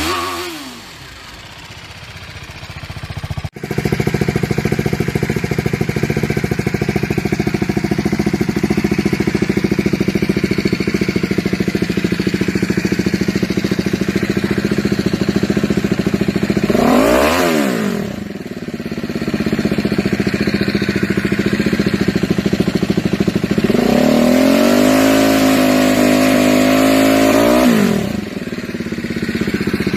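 BMW G310GS single-cylinder engine revved on the stand. At first the stock exhaust falls back from a rev to idle; about three seconds in it switches to a Remus full exhaust system idling, with one quick throttle blip about halfway and a longer rev held for several seconds near the end before it drops back to idle.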